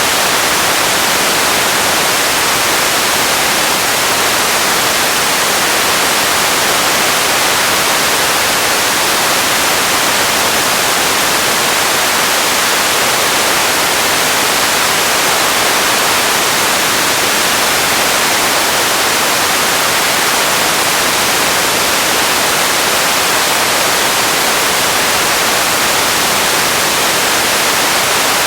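Radio static: a steady, even hiss with no tones, clicks or changes.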